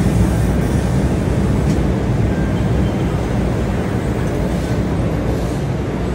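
LRT-1 light rail train moving past close by at the station platform: a steady rumble of wheels on rail that eases gradually as the train slows.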